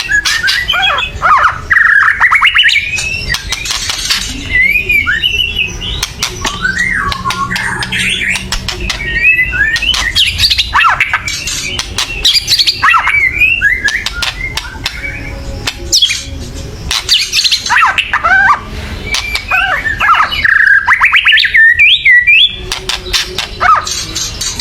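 White-rumped shama (murai batu) singing loud, varied whistled phrases broken up by harsh, rattling clicks ("kretekan"). This is the agitated, aggressive song used to provoke other shamas into singing.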